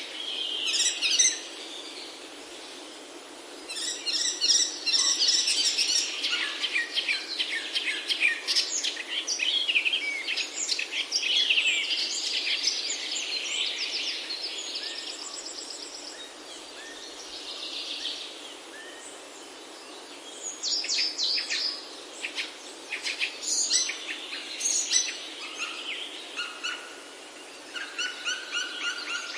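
Several songbirds singing and chirping, with many quick chirps and trills coming in bursts with short lulls, over a steady background hiss.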